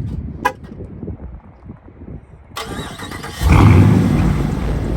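A short car horn chirp near the start, then a car engine starting with a sudden loud flare about three and a half seconds in, settling slightly afterwards.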